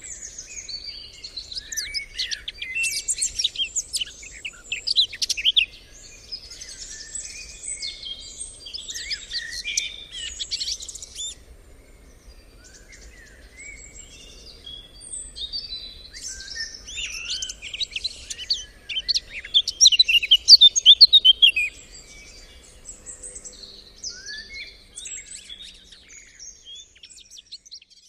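Several birds singing and chirping at once, many short overlapping phrases, loudest in two spells, a few seconds in and again about three quarters of the way through, then thinning out near the end.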